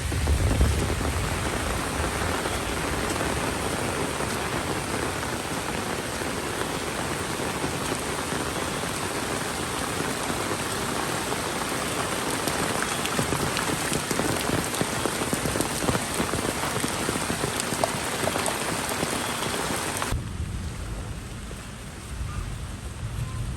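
Steady rain falling, an even hiss with scattered drop ticks. About three seconds before the end the rain sound cuts off abruptly, leaving a quieter low rumble.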